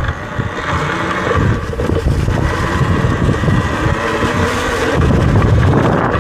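Talaria electric dirt bike being ridden, its motor and drivetrain running under tyre noise and wind buffeting the microphone, getting louder about five seconds in.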